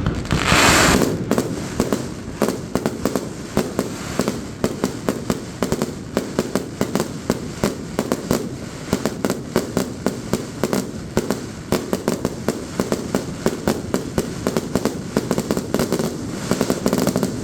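Fireworks display: a loud aerial shell burst about half a second in, followed by a dense, continuous barrage of sharp bangs and crackles, several a second.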